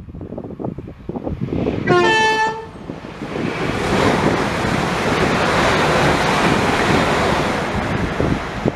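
A train horn sounds briefly about two seconds in, two notes stepping from low to high, and then a train passes through the station at speed with a loud rushing roar lasting about five seconds.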